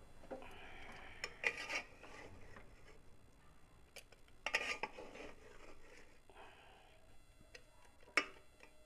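A spoon scraping and clinking in a cooking pot of biryani just opened after its dum steaming, in a few separate bouts of knocks and scrapes.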